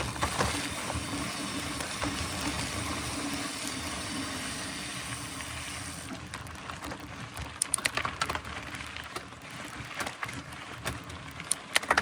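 Mountain bike ridden along a trail: a steady rush of rolling and wind noise for about six seconds, then scattered sharp clicks and knocks as the bike goes over rough ground.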